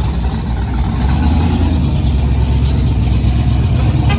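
Pontiac GTO's V8 engine running steadily at low revs, a deep even rumble that grows a little louder about a second in.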